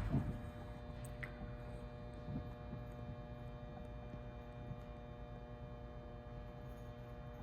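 Steady faint electrical hum with a few small ticks: the quiet background while waiting for the engine to be started.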